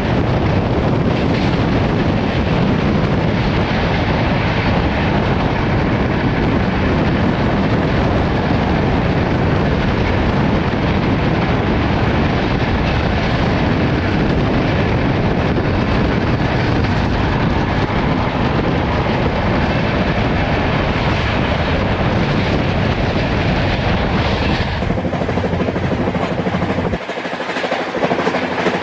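Indian Railways passenger train running at high speed, about 140 km/h, with a steady, loud noise of the moving train. The deep part of the sound drops away shortly before the end.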